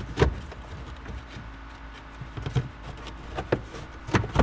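A few short knocks and clicks, spaced about a second apart, from parts being handled on the car, over a steady low hum.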